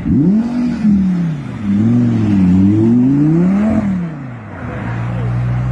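A vehicle engine revving, its pitch rising and falling several times, then settling into a steady note about four and a half seconds in.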